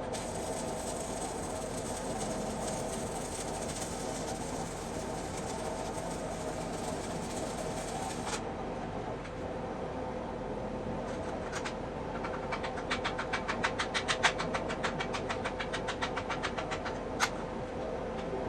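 A steady mechanical drone with a high hiss that cuts off abruptly about eight seconds in. From about eleven seconds a run of rapid, sharp clicks, roughly eight a second, goes on for several seconds, with one stronger click near the end.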